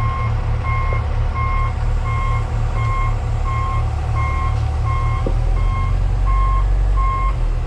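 Backup alarm beeping steadily, about one beep every 0.7 seconds, over the low running of a heavy diesel engine.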